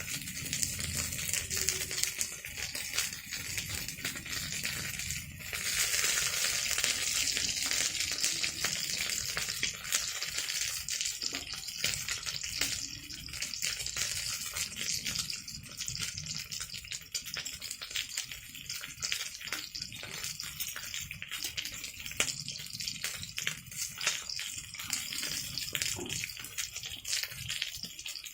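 Chicken legs sizzling and spattering in hot oil in a pan, a steady crackling hiss that grows louder about five seconds in.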